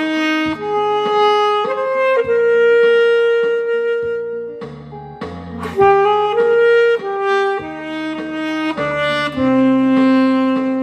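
Alto saxophone playing a slow, singing melody of long held notes over a backing accompaniment track.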